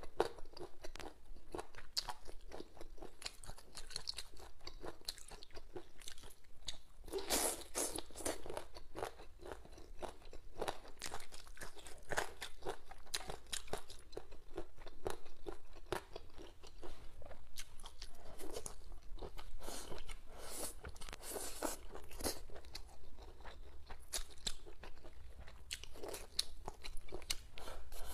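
A person chewing crunchy boneless chicken feet: many small crisp crunches throughout, with a louder run of bites about seven seconds in.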